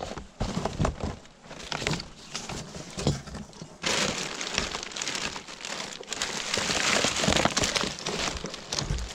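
Hands rummaging through discarded items: scattered knocks and clatter of objects being moved for the first few seconds, then from about four seconds in, steady rustling and crinkling as the contents are pulled about.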